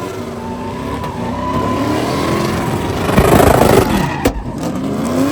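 Vehicle engine revving hard during a burnout, its pitch sweeping up and down, with a loud rush of noise swelling about three seconds in and a brief drop-out just after four seconds.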